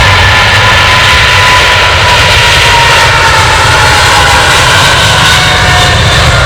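Jet engines of an Emirates SkyCargo Boeing 777 freighter, GE90 turbofans, running loud: a heavy steady rumble with a whining tone that slowly falls in pitch.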